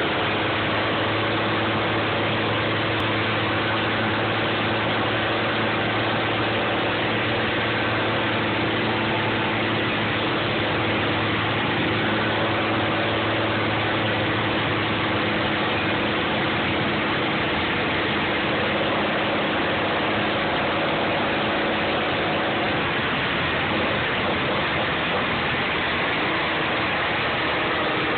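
M35A2 deuce-and-a-half truck's turbocharged multifuel inline-six engine running steadily, its note shifting slightly about two-thirds of the way through.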